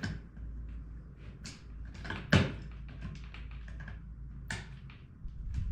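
Small metal chain links clinking and ticking as an opened link is worked around an eyelet, with one sharper clack about two and a half seconds in.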